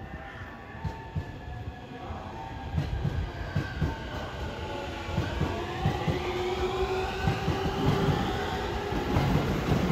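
Electric train approaching over the tracks, growing steadily louder, with wheels clattering over the rails and a motor whine that glides up in pitch.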